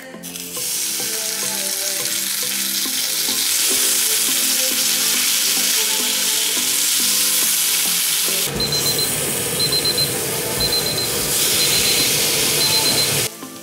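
Paneer skewers frying in a hot pan, with a loud steady sizzle. About eight seconds in the sizzle turns fuller and crackly, and a short high electronic beep repeats about once a second over it.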